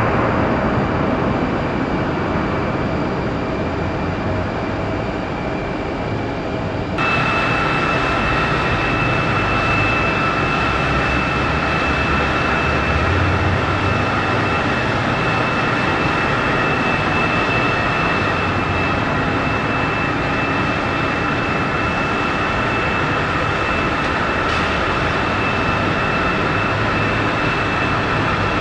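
Jet airliner engines running, a steady rush with a high whine. An abrupt cut about seven seconds in switches to another stretch of engine noise with a higher, stronger whine.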